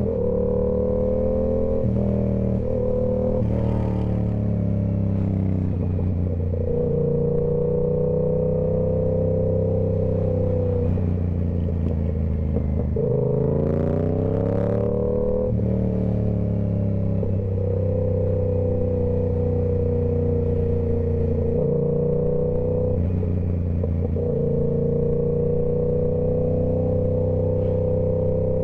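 2023 Yamaha YZF-R7's 689 cc parallel-twin engine through a Toce full-system exhaust, running at a steady cruise with a few brief dips in revs. About halfway through the revs drop, then climb quickly as the bike accelerates hard.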